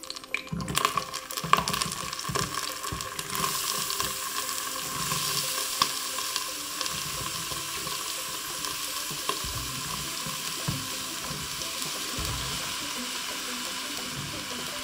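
Chopped onion and mushrooms frying in hot sunflower oil in a multicooker bowl: a steady sizzle that grows a little after a few seconds. A few sharp knocks come in the first seconds as the food goes in.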